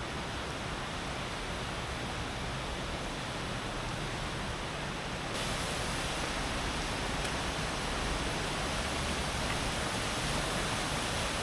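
Underground waterfall at the back of Yordas Cave, a steady rush of falling water that gets suddenly louder and brighter about five seconds in.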